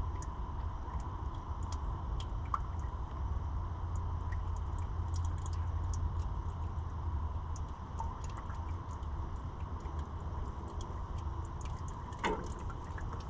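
Old oil mixed with water draining from the compressor's engine into a pan, a steady run of liquid with scattered drips; the water in the oil shows the engine has taken on water. A short clatter near the end.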